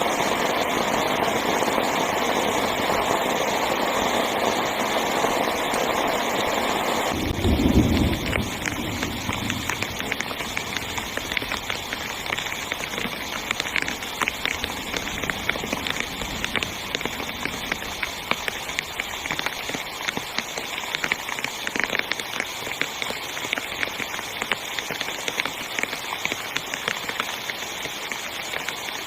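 Heavy rain on a tent. For the first seven seconds it is a dense, steady rush; then the sound changes suddenly, with a short low thump, to rain pattering on the fabric in many distinct drops.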